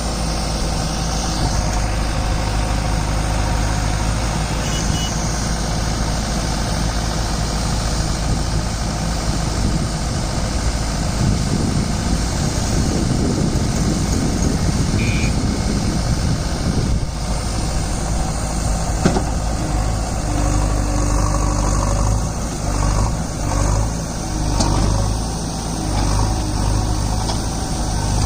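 JCB 3DX backhoe loader's diesel engine running steadily as the machine works, with the sound swelling in the middle and wavering in the last few seconds.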